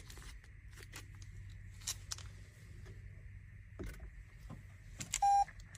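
Toyota Corolla Cross Hybrid being switched on: a few light clicks over a faint steady low hum, then a single short beep about five seconds in, the car's start chime.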